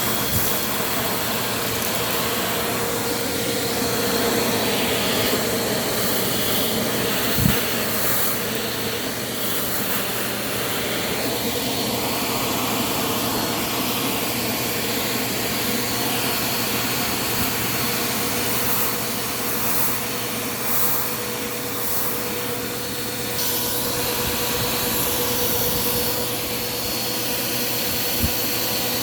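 Bissell PowerForce Compact vacuum running steadily with a steady motor whine, sucking up debris with brief high crackles here and there. There is a single knock about seven seconds in.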